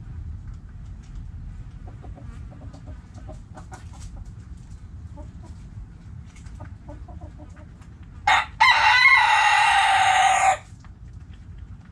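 Hens clucking softly, then a rooster crowing once, loud, about eight seconds in: one short note, then a long held call that drops in pitch at the end.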